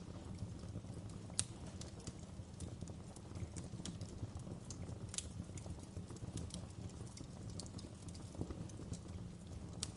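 Wood fire crackling in a fireplace: irregular sharp pops and snaps of burning logs over a steady low rumble of the flames, with one louder pop about a second and a half in.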